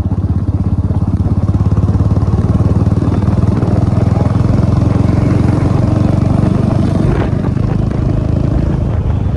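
Yamaha MT-15's 155 cc single-cylinder engine running steadily at a low, even speed, its firing pulses heard as a rapid, regular beat.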